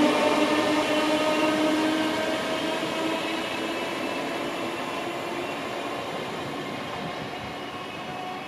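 Class 315 electric multiple unit running away along the track: a steady whine over wheel-on-rail noise, fading as it goes.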